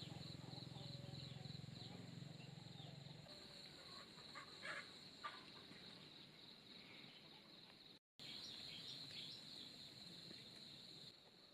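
Faint countryside ambience: a steady high insect drone with scattered short bird chirps. The sound cuts out for a moment about eight seconds in.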